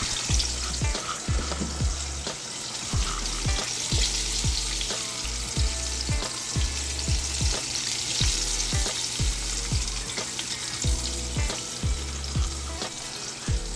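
Flour-breaded crappie fillets frying in a pot of hot oil, a steady sizzle. Underneath is background music with a regular beat and bass line.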